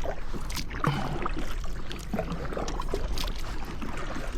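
Kayak paddle dipping and splashing in lake water, several irregular strokes, over a steady low rumble.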